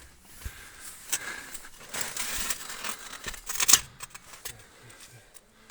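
Rustling and scraping with scattered clicks as a chimney flue pipe is handled and positioned, then a sharp knock about three and a half seconds in.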